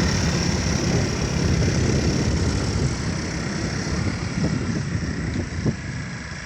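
Low engine rumble of a passing heavy vehicle, fading gradually as it moves away.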